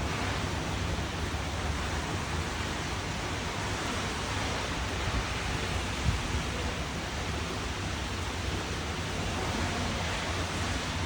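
Steady rain falling, a continuous even hiss with a low rumble beneath it. There is one soft thump about six seconds in.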